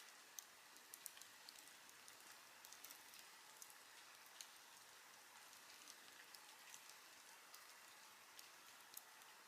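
Wood campfire crackling softly: a steady hiss with irregular sharp pops and snaps of burning wood.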